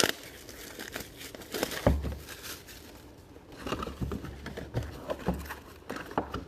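Plastic shrink wrap crinkling and tearing with scattered clicks and crackles as a sealed box of football cards is unwrapped.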